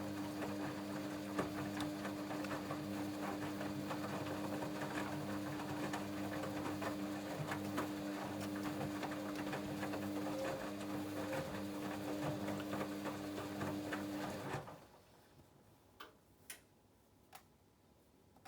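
Hoover Dynamic Next washing machine turning its drum during the wash: a steady motor hum over a crackling, tumbling noise. It stops abruptly about fourteen and a half seconds in, followed by a few faint clicks.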